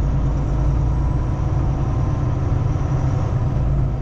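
Kenworth T680 semi truck's engine and road noise heard from inside the cab while driving, a steady low drone.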